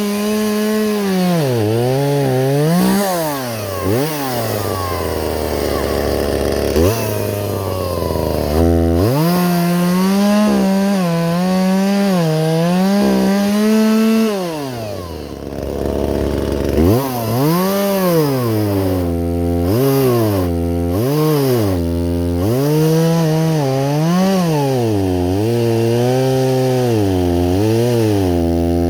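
Two-stroke chainsaw cutting wood, its engine speed rising and falling as the chain bogs under load and frees. It drops back to idle twice, about five seconds in and again around fifteen seconds, then revs in quick repeated surges toward the end.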